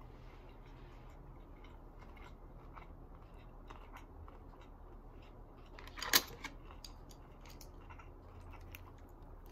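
Close-miked chewing of a homemade fresh spring roll (shrimp, rice, lettuce and carrot), with soft wet mouth sounds and small clicks. One sharp, louder click comes about six seconds in.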